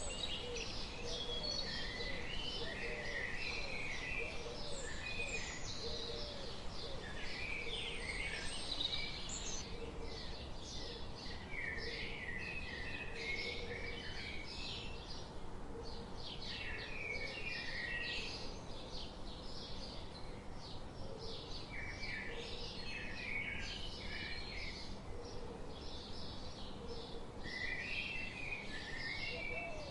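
Several birds chirping and calling at once, in many short overlapping high notes, with fainter low notes beneath and a steady background hiss.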